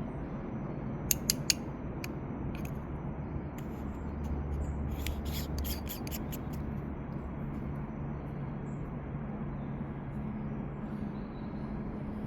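Sharp clicks and scraping from gear being handled, three quick clicks about a second in and a cluster of them about five seconds in, over a steady low hum.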